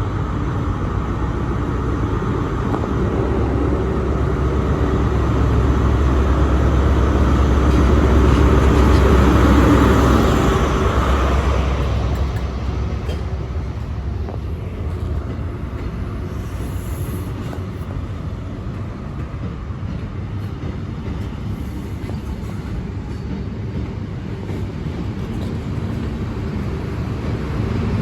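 Diesel train running through the station, a deep rumble that builds to its loudest about eight to ten seconds in and then settles to a steady, lower drone.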